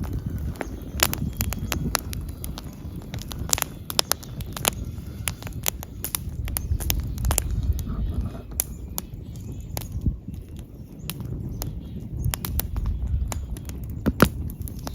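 Wood fire crackling, with irregular sharp snaps and pops over a steady low rumble of burning.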